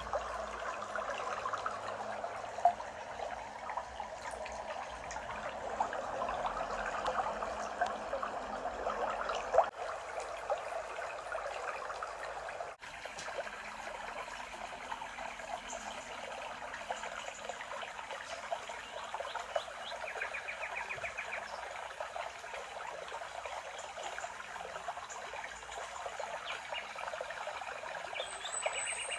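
Water trickling and babbling steadily, with birds calling now and then above it, including a short rapid trill about twenty seconds in.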